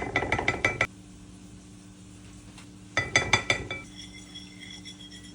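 A spoon clinking quickly against a bowl in two short runs of ringing taps, one at the start and another about three seconds in, as a tablespoon of ketchup is knocked off into the sauce. A steady low hum runs underneath.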